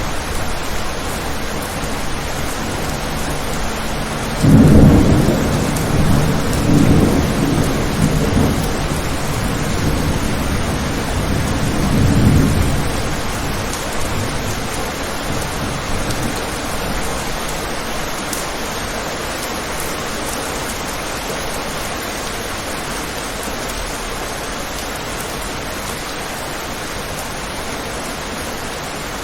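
Steady rain falling on a window, with a thunderclap about four seconds in that rolls on with a couple of further swells and fades away after about ten seconds.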